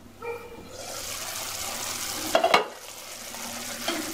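Tomato and pea masala sizzling in an open kadai once its glass lid is lifted off, the hiss setting in about a second in, with one sharp clink partway through. The masala has cooked down until the oil separates, so it is frying in its own oil.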